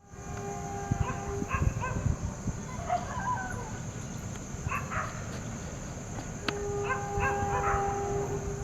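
Dogs barking in short bursts several times. A steady horn tone is held for about a second and a half at the start and again for about two seconds from about six and a half seconds in.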